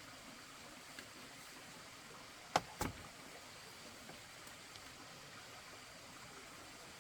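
Two sharp knocks a quarter second apart, about two and a half seconds in, with a small click shortly before, over a faint steady hiss.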